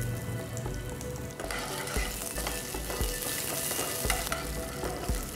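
Onion pieces sizzling in hot oil with whole spices in a frying pan, stirred with a flat spatula that knocks and scrapes against the pan. The sizzle grows louder about a second and a half in.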